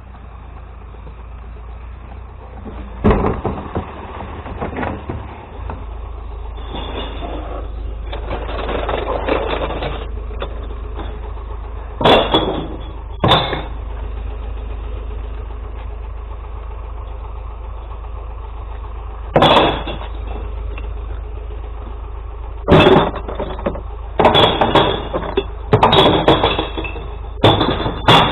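Glass recycling collection truck's engine idling with a steady low rumble, broken by sharp knocks and clattering bursts, a few scattered and then crowding together near the end.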